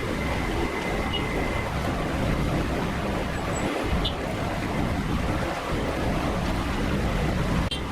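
Steady rushing noise of a street-food stall's cooking, with a faint high tone in the first two seconds.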